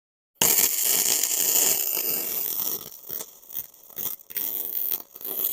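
MIG welding arc crackling and sizzling. It starts suddenly about half a second in, runs steadily for a couple of seconds, then goes stop-start with short gaps as the trigger is pulsed.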